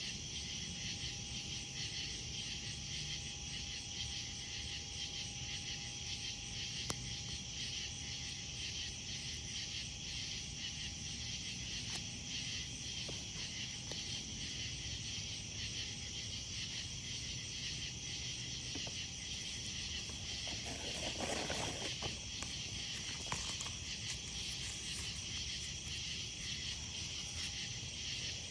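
A dense chorus of insects chirping in a steady, fast pulsing rhythm, with a few sharp pops from a campfire. A brief lower-pitched sound stands out about two-thirds of the way in.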